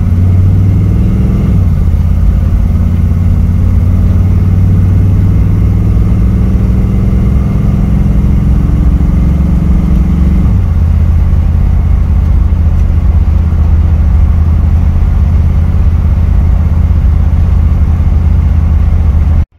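The engine of a 1959 Chevrolet Bel Air, heard from inside the cabin while driving at about 30 to 35 mph. Its note falls sharply twice, shortly after the start and again about halfway through.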